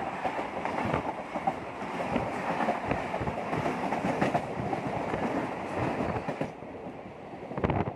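A Mumbai local train passing close alongside on the next track, heard from another moving train: a dense rush of wheel and carriage noise with rapid clattering, which drops off suddenly about six and a half seconds in as its last coach goes by. A couple of sharp knocks follow near the end.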